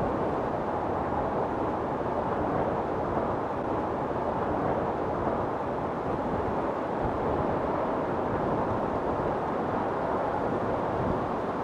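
Storm wind blowing steadily, an even rushing noise without distinct gusts or breaks.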